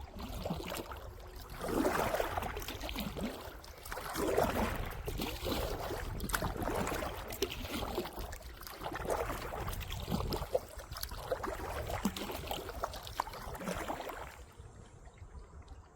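Kayak paddle strokes: the blades dip and pull through the water in splashing surges about every two seconds, with small drips and clicks between them, stopping near the end.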